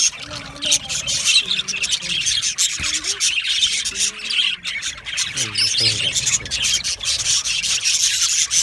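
A group of budgerigars chattering and warbling: a dense, unbroken mix of chirps, squawks and clicks, with gliding warble notes running underneath.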